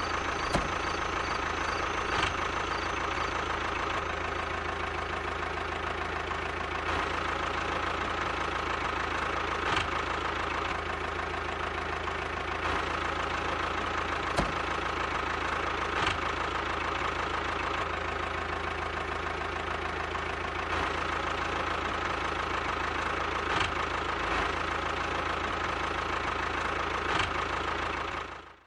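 Miniature toy tractor running steadily as it drives, an engine-like drone with a constant motor whine and a few light clicks. The sound cuts off abruptly at the end.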